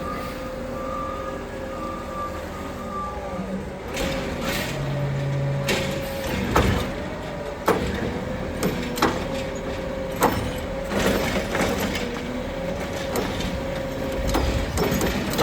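Automated side-loader garbage truck working with a steady, slightly wavering hydraulic whine, while a series of sharp clanks ring out over several seconds as the lift arm handles a cart.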